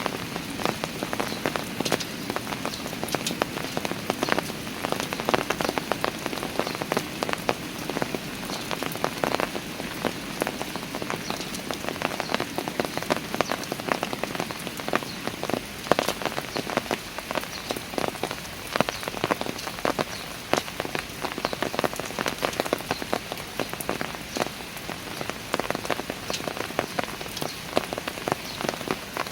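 Steady rain falling on stone steps, with a constant hiss and many close individual drops pattering.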